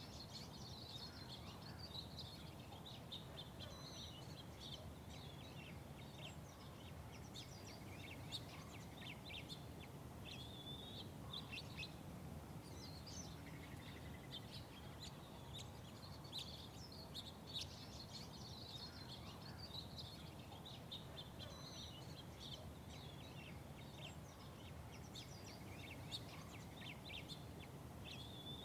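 Small birds chirping, many short high calls throughout, over a steady low background rumble.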